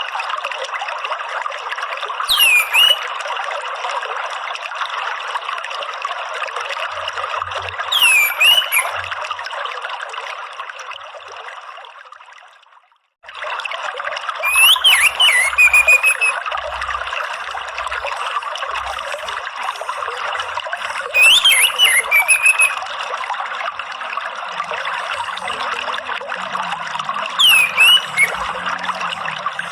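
Running water trickling steadily; it fades out before the middle and cuts straight back in. Over it, an orange-headed thrush calls five times, about every six seconds. Each call is a short whistle sliding down and back up, with high chattering notes above it.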